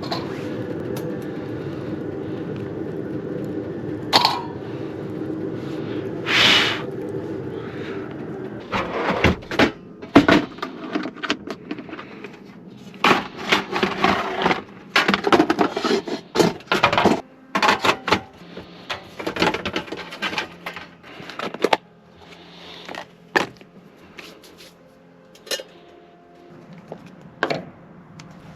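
A steady machine hum with several held tones stops about eight seconds in. It is followed by a long run of irregular knocks, clatters and cracks of things being handled.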